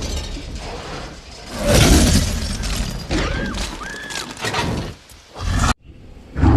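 A dinosaur roar sound effect, a rough noisy roar that is loudest about two seconds in, with two short rising-and-falling cries in the middle. It cuts off abruptly near the end, then starts again.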